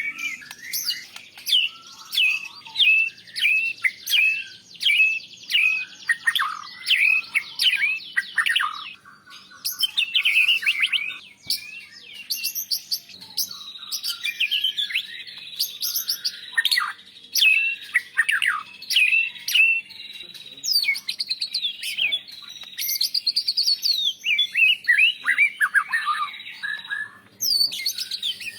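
White-rumped shama (murai batu) singing a loud, varied song: runs of quick, down-slurred whistled notes in repeated phrases, with short pauses between bursts and a thin steady high note under part of the song.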